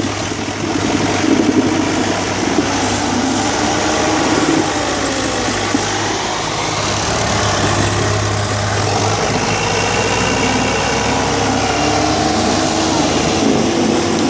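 Diesel tractor engines running hard and steadily under heavy load, pulling in a tochan tractor tug-of-war.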